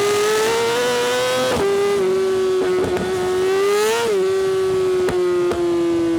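Yamaha R6 inline-four sportbike engine through an Akrapovic exhaust, ridden on the throttle. The revs climb steadily, dip briefly about a second and a half in, and climb again to a peak about four seconds in. The throttle then eases off and the note falls slowly.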